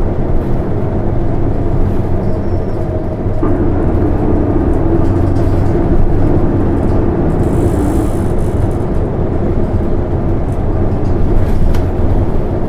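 Interior running sound of an Isuzu Erga city bus (PKG-LV234N2) under way: a steady diesel engine and road drone. A steadier droning tone comes in about three and a half seconds in and holds for about four seconds.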